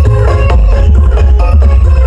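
Very loud electronic dance music with a heavy, continuous bass and a repeating melody, played through a large carnival sound system.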